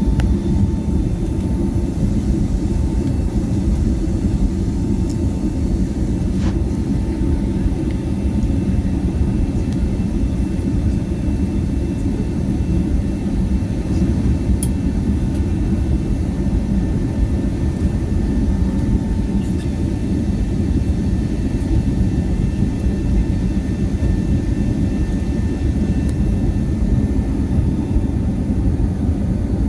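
Airbus A320neo cabin noise: a steady, even low roar of the jet engines and airflow, with a few faint steady tones above it.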